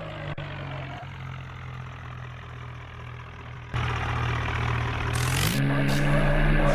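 John Deere tractor's diesel engine running steadily, turning abruptly louder partway through, then revving up with a rising pitch near the end.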